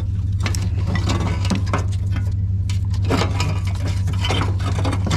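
Metal clinking and clattering, many quick light knocks of tools and parts against metal, over a steady low hum.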